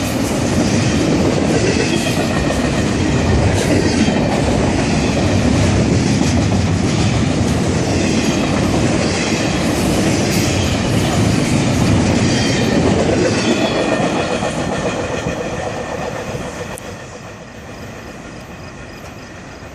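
A CSX double-stack intermodal freight train's cars rolling past, with wheels clacking over rail joints and intermittent high wheel squeal. The sound fades away about fifteen seconds in as the train recedes.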